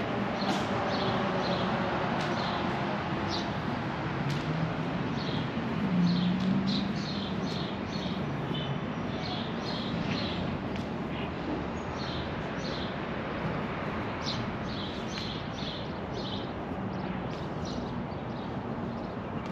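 Small birds chirping repeatedly in short, high calls over a steady low background hum.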